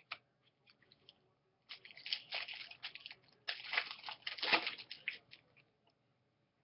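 Crinkling and crackling of a foil trading-card pack wrapper being handled and torn, in two bursts of about a second each.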